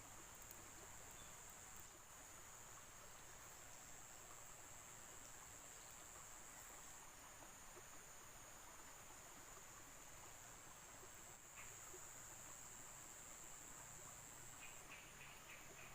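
Faint, steady insect chirring: a continuous high-pitched buzz over otherwise near-silent outdoor ambience.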